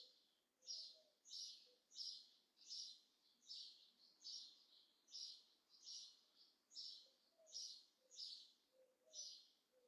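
A bird chirping faintly and steadily, one short chirp about every three-quarters of a second, over a quiet background.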